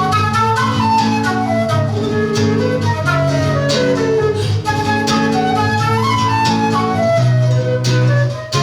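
Flute and seven-string guitar duo playing live: the flute carries a lively melody with quick descending runs over plucked guitar accompaniment, in a tune that blends Irish and Peruvian music.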